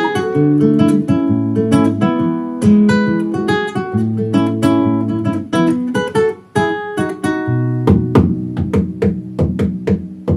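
Acoustic guitar music: plucked notes and chords, with a run of quick strums around two-thirds of the way through.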